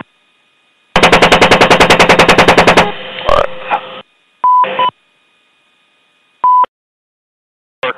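AH-64 Apache's 30 mm chain gun firing one burst of about two seconds, at about ten rounds a second, heard on the aircraft's recorded audio. Two short beep tones follow on the radio.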